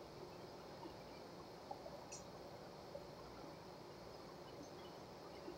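Faint eating sounds: quiet chewing and lip-smacking with scattered small mouth clicks, over low room tone.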